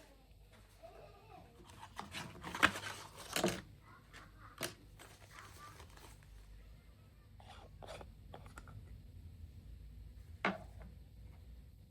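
Household handling sounds: scattered clicks and light knocks, with a louder rustling, tearing-like burst about two to three and a half seconds in.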